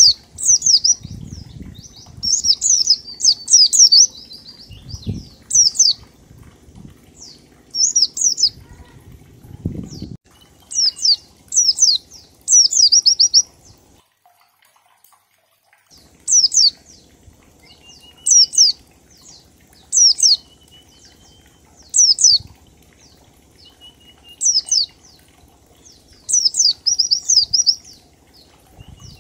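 White-eye (pleci) singing in the 'ngalas' style: short bursts of rapid, high, falling notes repeated about every two seconds, with a brief pause about halfway through. A faint low hum lies under the first half.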